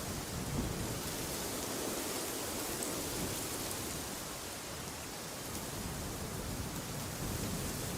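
Wind blowing steadily with a deep rumble, easing slightly in the middle and building again near the end.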